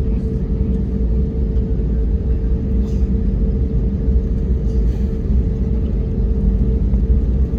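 Airbus A321neo heard from inside the passenger cabin: a steady, loud rumble of the jet engines and airframe, with a steady droning tone over it.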